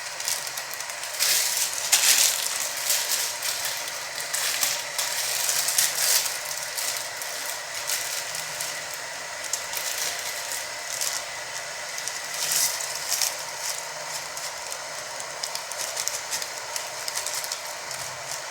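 Water heating to a boil in an electric kettle: a steady bubbling hiss, with irregular crackling and clatter that is loudest in the first few seconds as the noodle cakes go in.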